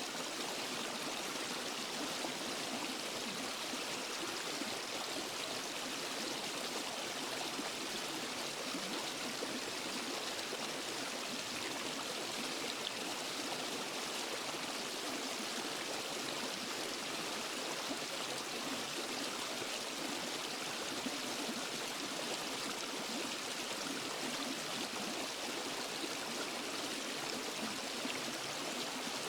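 Waterfall and forest stream, water rushing and splashing steadily with no change.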